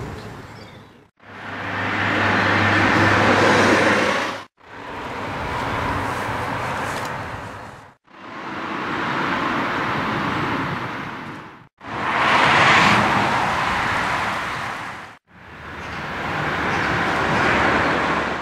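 2011 Mercedes-Benz S 63 AMG (W221) V8 accelerating, heard in five short cut-together takes, each swelling up to a peak and falling away before cutting off suddenly.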